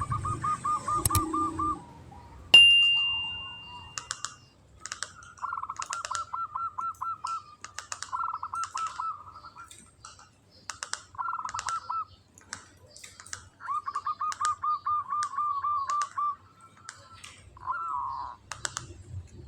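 Zebra dove (perkutut) cooing in the rattling 'ngretek' style: about six quick trains of short notes at about five a second, with sharp clicks scattered between them. A loud ding-like tone sounds a few seconds in and fades over about a second and a half.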